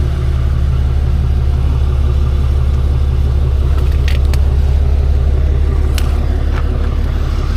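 Truck engine idling steadily with a deep, even rumble, with a few light clicks about four and six seconds in.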